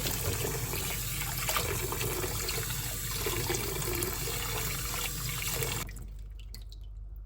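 Water running steadily from a tap, cut off abruptly about six seconds in, followed by a few faint clicks.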